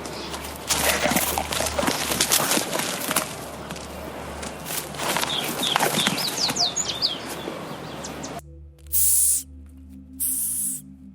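Birds fluttering their wings, with many sharp clicks and a few short, high, falling chirps. About eight seconds in this gives way to a run of short, breathy hisses with pauses between them.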